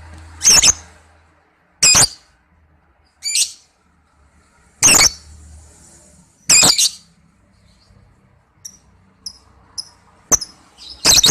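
Lovebird calling in short, sharp, high-pitched chirps, one every one to two seconds, about seven in all, with a pause of a few seconds between about 7 and 10 seconds in in which only faint ticks are heard.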